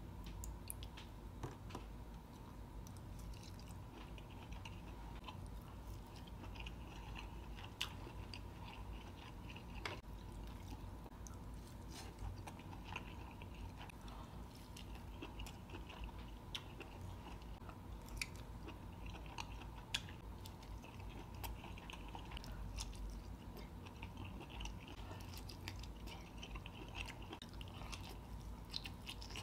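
Close-miked chewing of crab and lobster meat: soft, wet mouth sounds and lip smacks with occasional sharper clicks, over a faint steady low hum.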